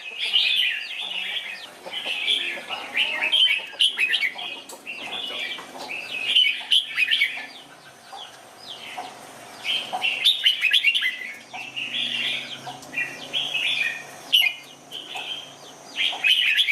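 Red-whiskered bulbul singing: a string of short, quick whistled phrases, each a second or two long, with brief pauses between them.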